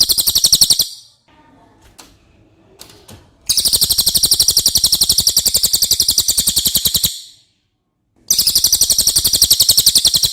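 Cililin song: loud, rapid high-pitched trills of evenly repeated notes, in three runs. One ends just after the start, a longer one begins about a third of the way in, and another begins near the end.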